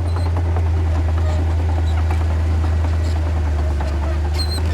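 Heavy diesel earthmoving machinery running steadily with a deep, even drone, with faint scattered clanks. A brief high squeak comes near the end.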